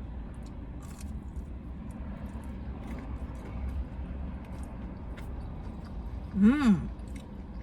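A person eating Cajun fries: small chewing clicks over a steady low rumble, then about six and a half seconds in a brief hummed "mmm" of approval that rises and falls in pitch.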